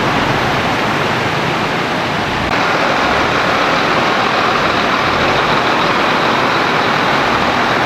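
Steady rushing of floodwater flowing across a road, with the low rumble of a heavy vehicle's engine running beneath it.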